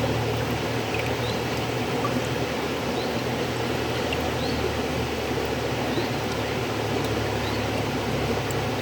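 River water flowing steadily, a continuous rushing with a deep low rumble, and a few faint short high chirps now and then.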